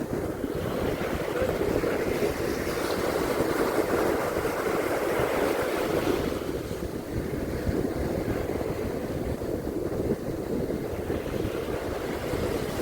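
Ocean surf washing onto a beach, a steady rushing that swells for a few seconds in the first half and then eases, with wind rumbling on the microphone.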